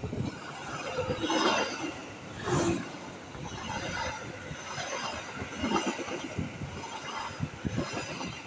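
Passenger train running past, its wheels clattering and knocking over the rails in an uneven stream, with louder swells about one and a half and two and a half seconds in.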